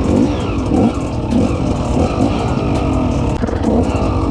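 Off-road vehicle engine under way on a dirt track, its pitch rising and falling in short repeated swells as the throttle opens and closes, with many small clicks and rattles over the top.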